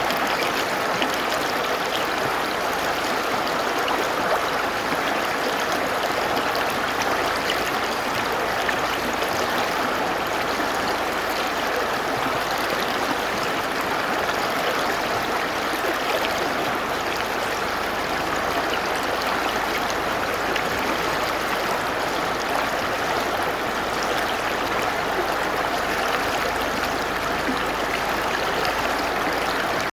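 Mountain river rushing and splashing over rocks in a steady, even wash of water noise.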